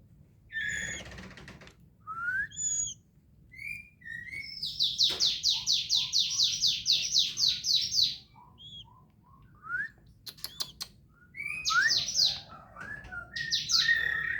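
White-rumped shama chirping and calling in short rising whistled notes, with a fast even run of repeated sharp notes, about four a second, in the middle.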